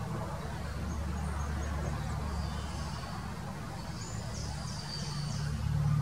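A quick run of high, thin bird chirps about four seconds in, over a steady low rumble.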